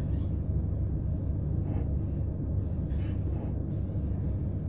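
Steady low rumble of a c2c electric passenger train, with a few brief faint noises about two and three seconds in.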